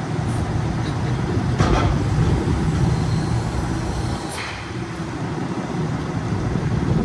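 Diesel engine of a Freightliner M2 106 garbage truck running steadily, with two short hisses, one a little under two seconds in and another just past four seconds.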